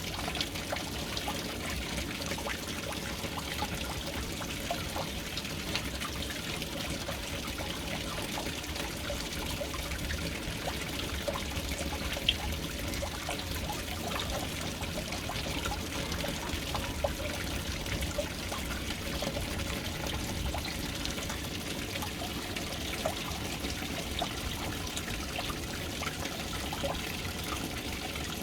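Water pouring steadily into a household water storage tank, a continuous splashing trickle with occasional louder drops.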